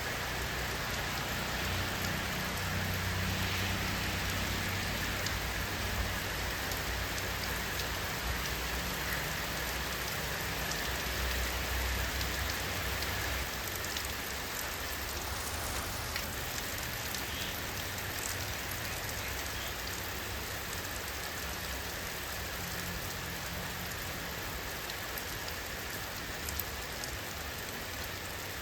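Steady rainfall, with scattered drops ticking close by and a low rumble underneath through roughly the first half.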